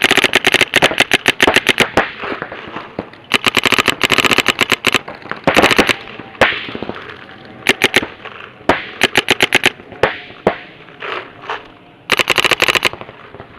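Paintball markers firing rapid strings of shots, string after string with short pauses between, as a speedball game opens.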